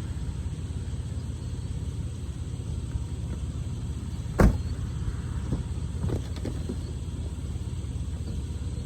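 A vehicle running with a steady low rumble. A single loud thump comes about halfway through, followed by a few lighter knocks.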